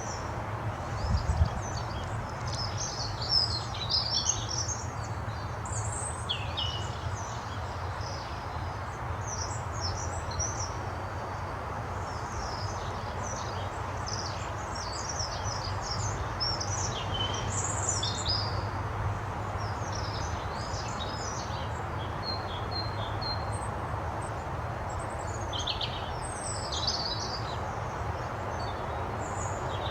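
Small birds chirping and singing, many overlapping short high chirps and trills, over a steady background hiss and low hum. A low thump sounds about a second in.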